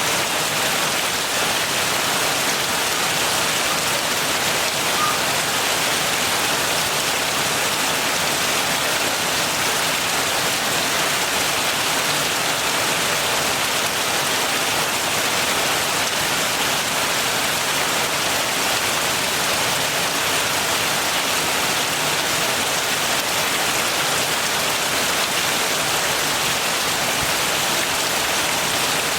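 Steady heavy rain falling, an even dense hiss with no breaks.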